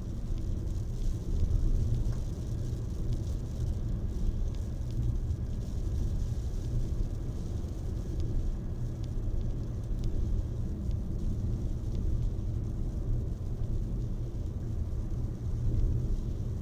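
Steady rain, an even hiss, over a constant low rumble.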